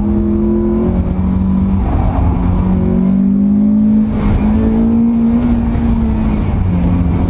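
Car engine pulling hard during an autocross run, its pitch rising and falling with the throttle, heard from a camera mounted low on the car's body.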